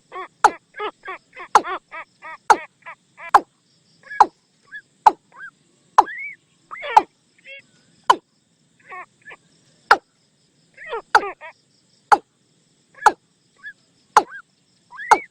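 Watercock calling, used as a decoy call: a rapid series of hollow, evenly spaced notes over the first three seconds or so, then sharp single notes about once a second, with occasional rising calls and short bursts of notes between.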